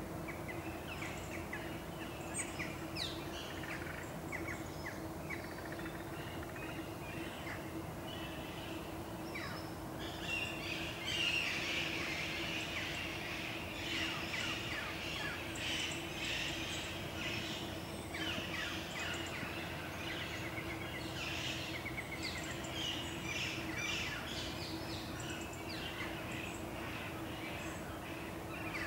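Birds chirping and calling in many short notes, sparse at first and then busiest through the middle, over a steady low hum.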